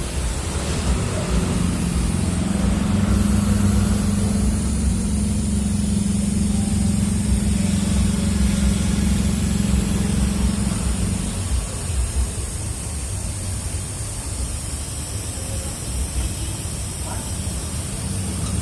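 Car engine idling steadily, with a low hum that is stronger for the first ten seconds or so and then eases off.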